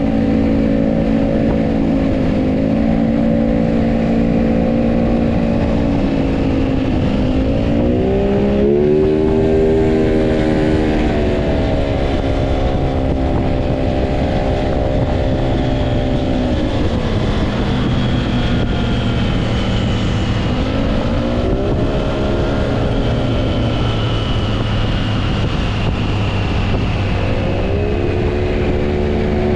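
Triumph Trident 660's inline three-cylinder engine under way on the road, holding steady revs and rising in pitch three times: about seven seconds in, around twenty seconds, and near the end.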